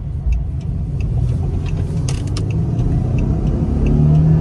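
V6 car engine heard from inside the cabin, pulling harder and growing louder, with a deep steady drone building near the end.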